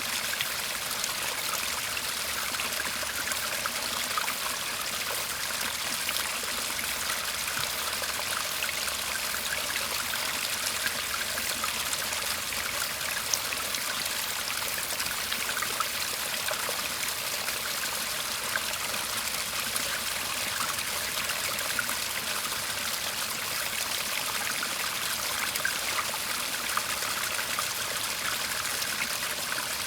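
Shallow garden stream murmuring steadily, water trickling and babbling over stones with a scatter of tiny splashes.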